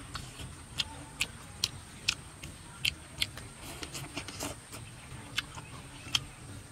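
A person eating roasted mushrooms and baby fish: chewing with sharp, wet mouth clicks and lip smacks, irregular, about one or two a second. A faint steady high-pitched hum sits underneath.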